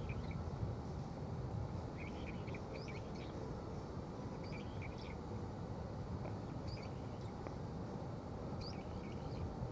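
Small birds giving scattered short chirps over a steady low hum of city background noise.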